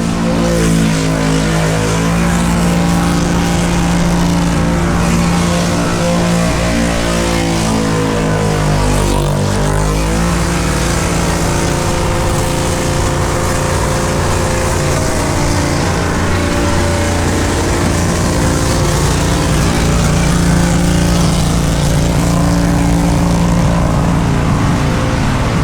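V8 car engine held at high, steady revs through a long burnout, its pitch wavering slightly over the first ten seconds, over a constant hiss of spinning tyres.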